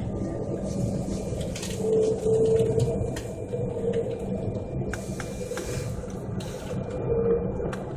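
Aircraft cabin noise: the engines run with a steady low drone and a hum that swells and fades, and faint rattles and clicks come and go.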